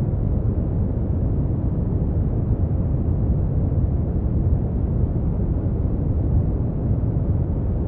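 Brown noise: a steady, deep rumbling hiss with most of its energy in the low end and nothing above about 4 kHz, even and unchanging.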